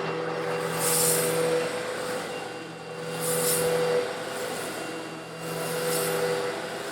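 Eureka vacuum cleaner running with a steady motor hum while it sucks up small coarse stone granules, a gritty rattling hiss that swells three times.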